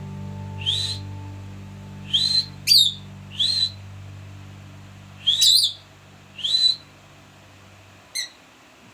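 A pet parrot giving short, rising whistled chirps, about eight of them, irregularly spaced. A steady low drone runs underneath and stops about eight seconds in.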